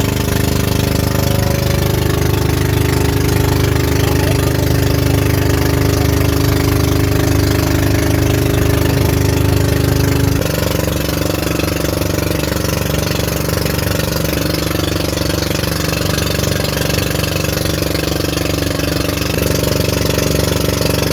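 An engine running steadily, its note changing abruptly about halfway through.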